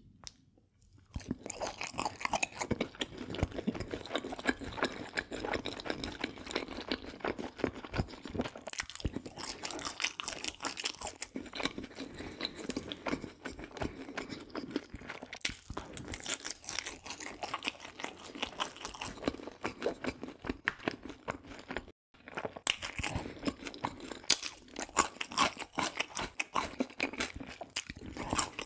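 Close-miked chewing of crisp fried food, a dense run of crackling crunches that starts about a second in and breaks off briefly once near the end.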